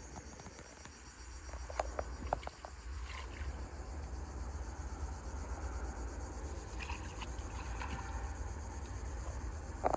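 Insects chirring steadily over a low, constant rumble, with a few sharp clicks about two seconds in and another pair near the end.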